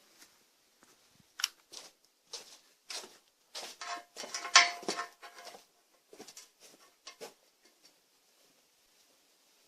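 Irregular clicks, taps and rustles of hands handling things on a workbench, with the loudest knock about four and a half seconds in; the motor is no longer running.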